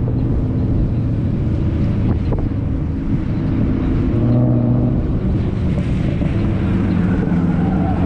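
Drift cars' engines running on a racetrack, their pitch rising and falling as they rev, with wind buffeting the microphone.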